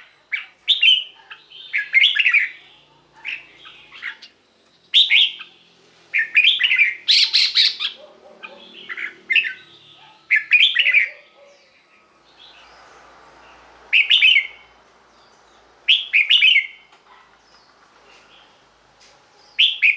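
Red-whiskered bulbul singing short, clear whistled phrases, repeated in clusters with brief pauses and a longer gap about two-thirds of the way through.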